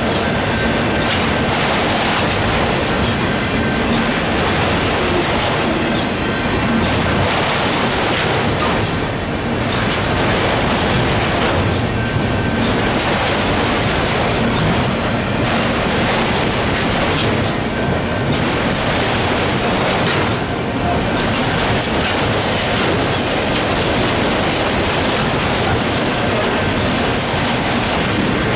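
Freight train cars rolling steadily past a grade crossing: a continuous loud rumble of wheels on rail, with rail-joint clickety-clack.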